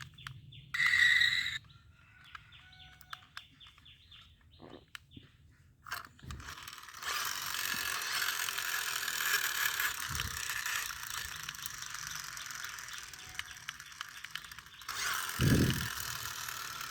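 Plastic toy motorbike's gear mechanism whirring with a rapid ratcheting click for about eight seconds, after a short high beep about a second in; a dull thump near the end.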